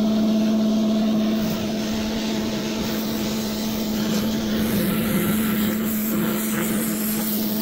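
Pressure washer running with a steady hum, its jet spraying water across the patio paving.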